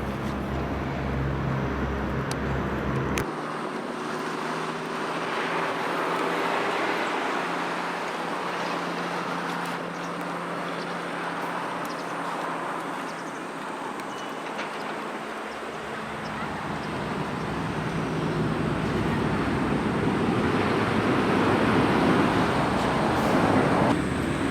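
Road traffic noise: vehicles running and passing, with a low steady engine hum in the first few seconds.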